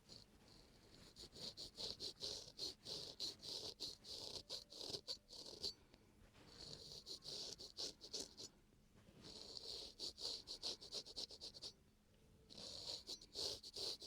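Razor scraping across moistened facial skin in runs of quick short strokes, with brief pauses between the runs, as fine hair and dirt are shaved off the face.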